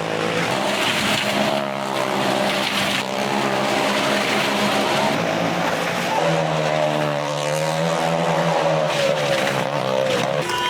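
Motor vehicle engine running during a stunt, its pitch rising and falling as it revs and eases off, most markedly in the second half.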